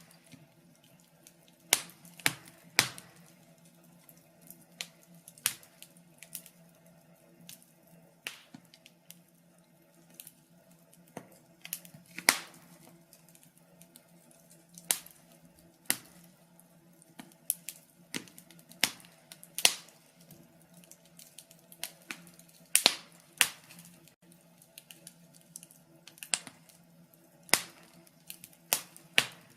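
Wood fire crackling in a fireplace: irregular sharp pops and snaps, one or two a second, with a few louder snaps. A faint steady low hum lies underneath.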